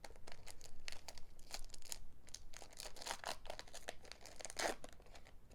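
Crinkling and tearing of a foil booster-pack wrapper being handled and opened: a string of irregular short rustles and crackles.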